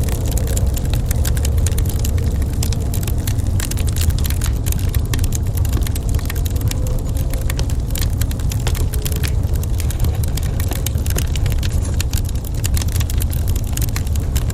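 Wood fire crackling in a fireplace, with many small snaps and pops, over a steady deep rumble.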